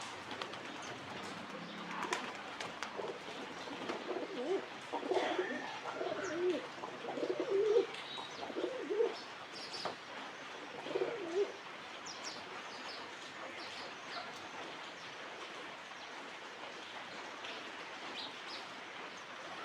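Pigeons cooing, a run of low wavering coos from about four seconds in that stops around twelve seconds, with faint short chirps of small birds scattered throughout.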